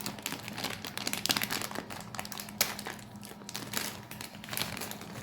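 Plastic Skittles Gummies bag being handled, with irregular crinkling crackles.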